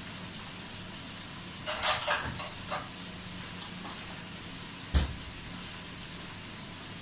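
Chicken wings sizzling as they sauté in a stainless steel pot: a steady sizzle, a short cluster of crackles about two seconds in, and one sharp knock about five seconds in.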